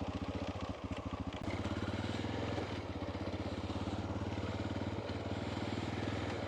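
Honda Dominator's single-cylinder engine running at low revs with an even beat of firing pulses; about a second and a half in the sound becomes slightly fuller and louder.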